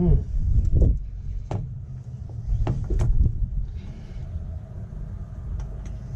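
Scattered clicks, light knocks and short scrapes of metal parts being handled while working on the engine, over a steady low rumble.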